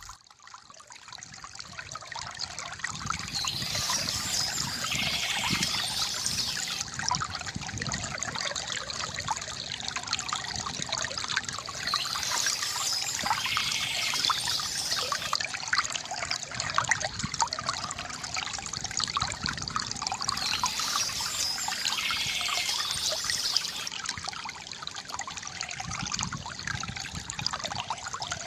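Bamboo fountain water trickling and splashing steadily, fading in over the first few seconds. A brighter, higher hiss swells and fades three times, about every eight to nine seconds.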